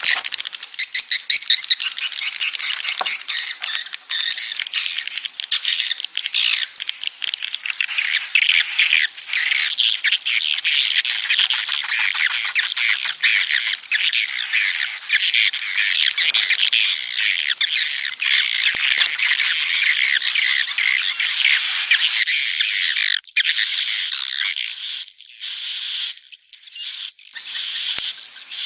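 Swiftlets' mating and breeding call: a dense, continuous chatter of high chirps and twitters, thinning into separate chirps with short gaps in the last few seconds.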